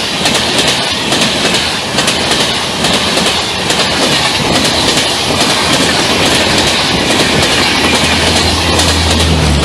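Duronto Express passenger train passing at speed, its wheels clattering rapidly over the rail joints. A low steady hum comes in near the end.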